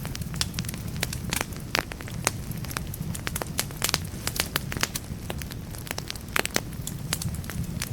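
Firewood logs burning in a fireplace: irregular sharp crackles and pops, several a second, over a steady low rumble of the flames.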